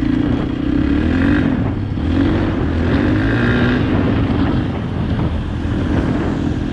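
Dirt bike engine running, its pitch rising and falling again and again as the throttle opens and closes.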